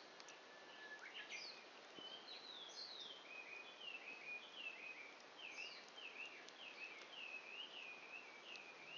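A songbird singing a rapid series of repeated sliding whistled notes, about two a second, over a faint hiss, with a couple of soft pops from the burning campfire.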